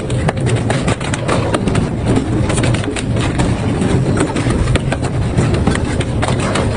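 Double-shaft industrial shredder tearing through metal: a steady heavy rumble with frequent sharp cracks and snaps as the metal breaks.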